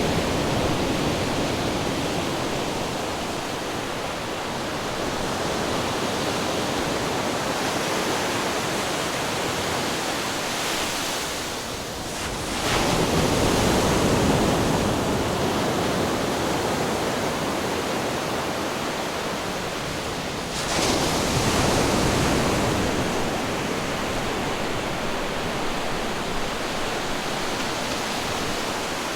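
Ocean waves breaking on rocks: a continuous wash of surf, with two waves crashing in suddenly, one a little under halfway through and one about two-thirds through, each slowly subsiding.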